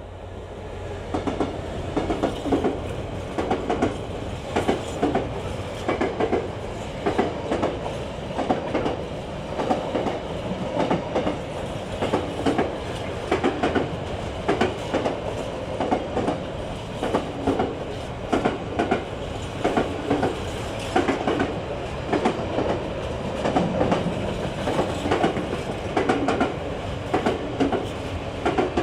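A Freightliner Class 66 diesel locomotive passes close by, its sound building over the first second. A long train of container wagons follows, rumbling steadily, the wheels striking the rail joints in a regular, repeating clickety-clack, often in pairs.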